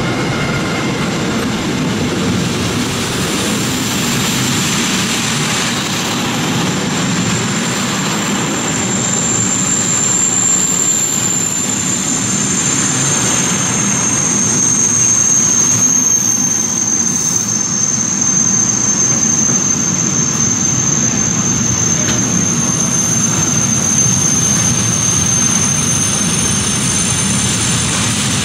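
Freight train's container wagons rolling past at close range: a steady, loud noise of wheels running on the rail. A thin, high-pitched squeal rides over it from about eight seconds in.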